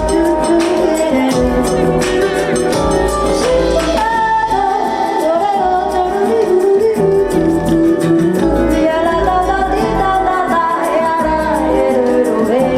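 A woman singing live with band accompaniment, her voice carrying a wavering, sustained melody over steady instruments and a bass beat.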